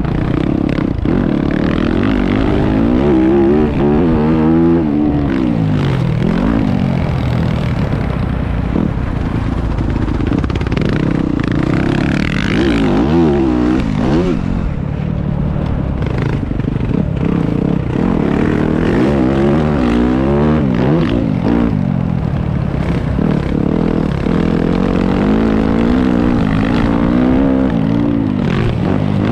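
Motocross motorcycle engines revving, their pitch climbing and dropping over and over.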